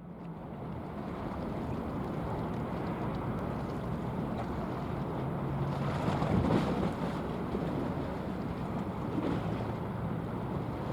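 A patrol ship's engines drone low and steady under a hiss of wind and water, swelling briefly about six seconds in.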